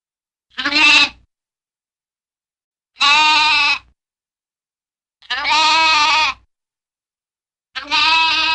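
An animal bleating: four separate calls, each about a second long and wavering in pitch, with silence between them.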